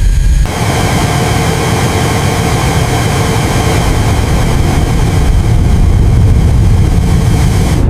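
Loud, steady engine-like rumble with a hiss over it, changing character about half a second in and cutting off abruptly at the end.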